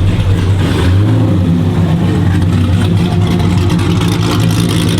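A loud car engine running close by, a steady low rumble.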